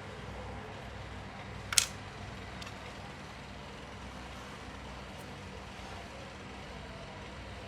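Steady low background rumble and hum, with one sharp click a little under two seconds in and two faint ticks after it.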